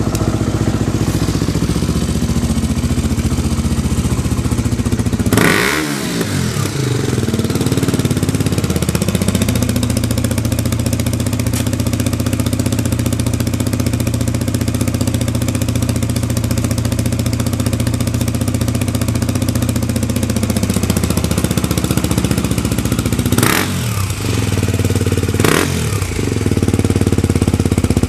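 KTM 200 Duke's single-cylinder four-stroke engine idling steadily, with a quick throttle blip about five seconds in and two more close together near the end, each rising and falling back to idle. A smooth, even idle with no abnormal noises, the sign of a healthy engine.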